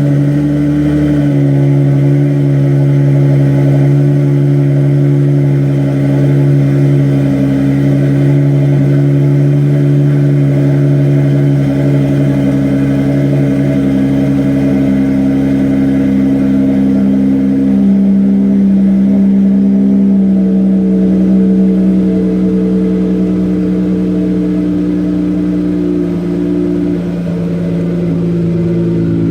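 Exhaust of a 2011 Dodge Charger's 3.6-litre Pentastar V6, running through a Flowmaster single-in dual-out muffler with the resonators removed. It runs steadily with a deep drone, the pitch shifting slightly a little past halfway.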